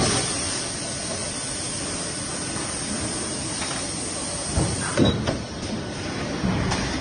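Industrial forging-line machinery running with a steady hissing din, and a few sharp metallic clunks about two-thirds of the way in.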